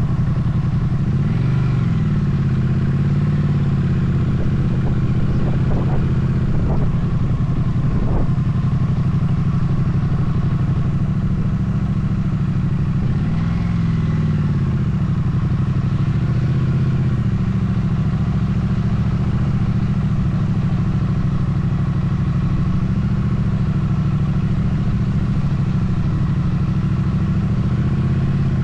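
Motorcycle engine running steadily while riding, its note briefly rising and falling twice, with a few light knocks about six to eight seconds in.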